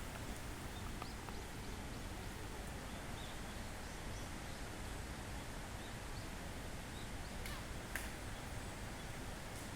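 Steady outdoor background noise with faint, scattered short chirps, likely distant birds, and two sharp clicks close together about seven and a half and eight seconds in, the second the loudest.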